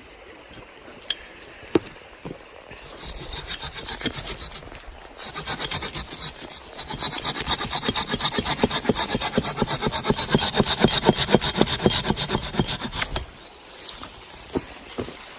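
Silky Pocket Boy folding handsaw cutting through wood with quick back-and-forth strokes. It starts about three seconds in, breaks off briefly, then saws steadily and stops near the end.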